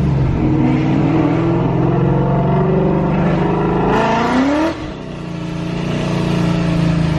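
Car engine pulling under throttle: its pitch climbs about four seconds in, drops with a gear change, then the engine builds again.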